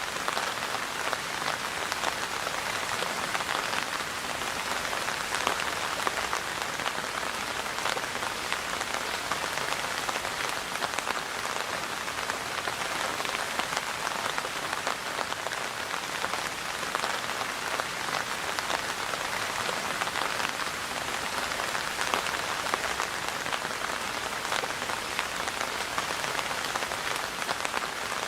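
Steady rain falling, a dense even patter of countless drops hitting a surface.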